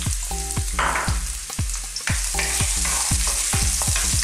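Ginger and garlic sizzling as they fry in hot cooking oil in a pot, stirred with a wooden spatula. The sizzle grows louder about two seconds in.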